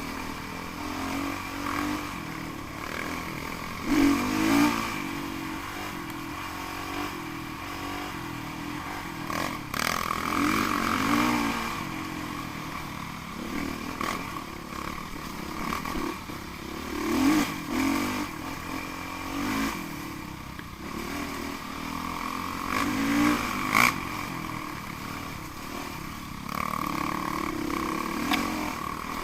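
Off-road motorcycle engines revving up and down repeatedly, with louder surges every few seconds.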